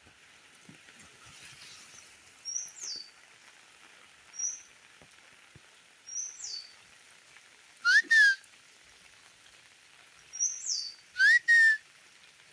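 Birds calling over a steady hiss of rain: short high falling chirps every couple of seconds, and a louder rising call with a held end that comes twice in the second half.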